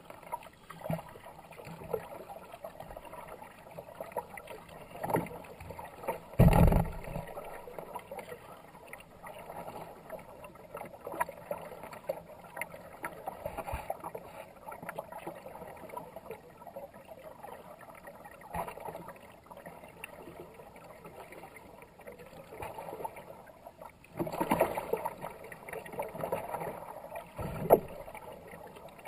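Kayak paddle strokes dipping and splashing in fast river water, with water swishing along the hull. A loud thump comes about six seconds in, and a busier run of splashing near the end.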